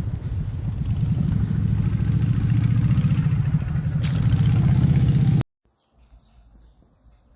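Car driving: a low rumble of road and wind noise that cuts off suddenly about five and a half seconds in, leaving near quiet.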